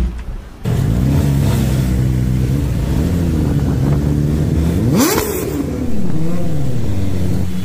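Kawasaki Ninja ZX-10R superbike's inline four-cylinder engine being ridden, its pitch rising and falling through the gears, with one sharp rev climbing steeply about five seconds in.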